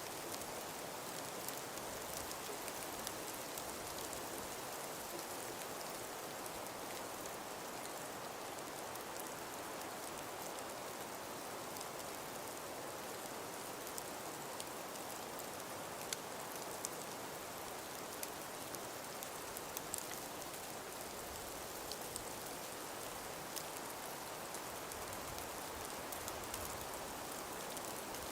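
Steady hiss of wind and falling snow, with scattered light ticks.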